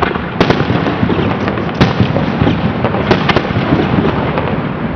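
Aerial fireworks bursting: a dense, continuous crackle of many small pops, with several sharp bangs standing out, twice about half a second in, once near two seconds and twice just after three seconds.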